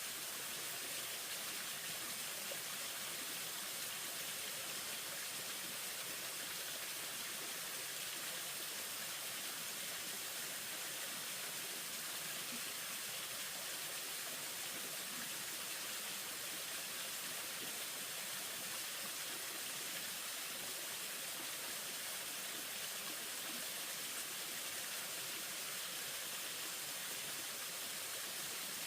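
Steady, even hiss with no distinct events, strongest in the upper range, like running water, rain or background noise.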